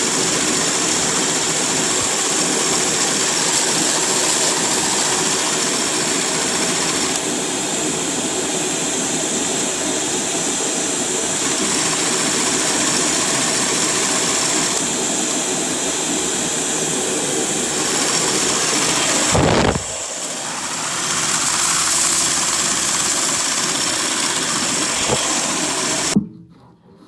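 Lego pneumatic vacuum engine running steadily on its air supply, a loud whirring, hissing machine noise, with a short sweeping whoosh about two-thirds of the way through. It stops suddenly near the end.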